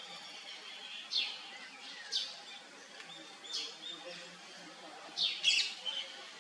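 Birds chirping in the trees, about five short high calls, each a quick falling note, spread across a few seconds, two of them close together near the end.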